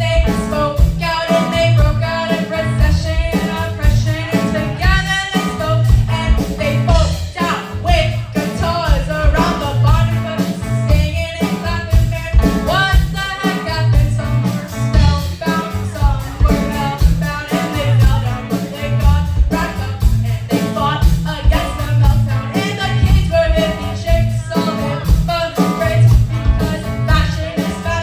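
A rock band playing live, with drums, bass, electric guitar and a lead singer.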